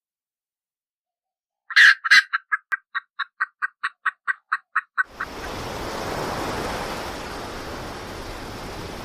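An animal's call: a rapid series of about twenty short clucks, about six a second, starting sharply and then running evenly for some three seconds. A steady hiss follows to the end.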